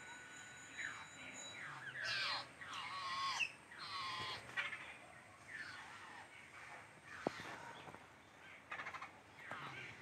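Several babblers calling: a run of harsh, repeated calls that fall in pitch. The calls start about a second in, come thickest through the first half and pick up again near the end.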